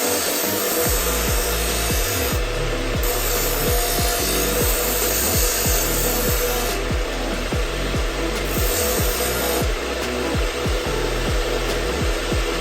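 Wood being abraded by a tool: a steady rasping noise with a faint even hum underneath.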